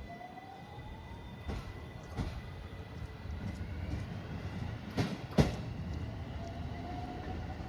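Electric train running along the rails, with a low rumble, a motor whine that slowly rises in pitch, and sharp clacks from the wheels over rail joints, the loudest about five and a half seconds in.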